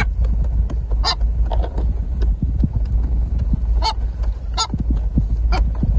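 A seabird giving about five short, harsh squawks, spaced irregularly, over a steady low rumble.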